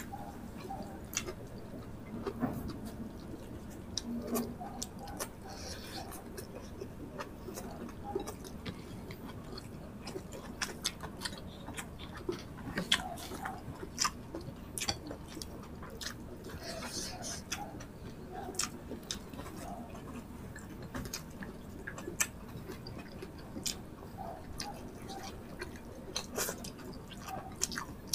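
Close-up chewing and lip smacking of two people eating rice and meat with their hands, with frequent short, sharp mouth clicks.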